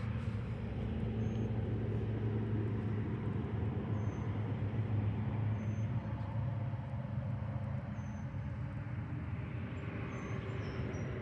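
Steady low engine hum running throughout, with faint short high chirps now and then.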